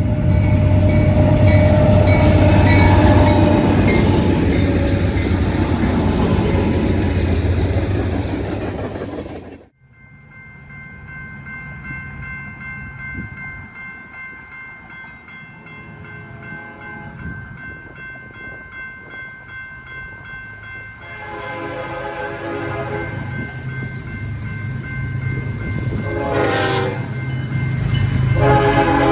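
Diesel freight train rumbling past close by for the first ten seconds, then a sudden cut to a quieter, more distant scene. Near the end a locomotive horn sounds over a growing rumble as a train approaches.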